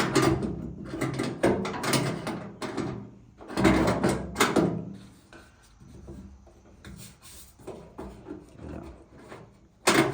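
Metal clattering and scraping from an old Chevy truck door's latch rod and linkage being pried with a screwdriver, in loud bursts over the first five seconds, then quieter clicks and knocks, with a sharp knock near the end.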